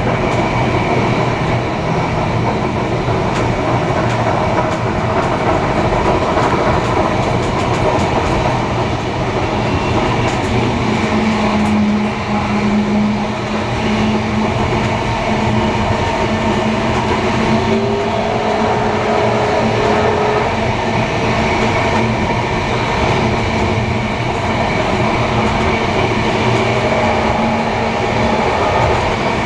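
A train running steadily on the rails, with a continuous rumble and some clickety-clack of wheels over rail joints. About ten seconds in, a steady low hum joins it and carries on.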